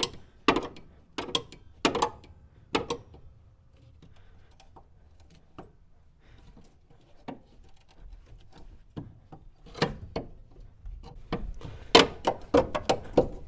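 Rusted steel chassis panel being bent and worked back and forth by hand to break it free where it can no longer be cut: a string of sharp clicks and knocks, clustered near the start and again toward the end with a quieter stretch between.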